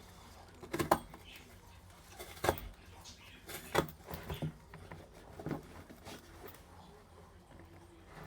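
Handling noise: a handful of sharp knocks and clicks, about five scattered over several seconds, with a low background between them.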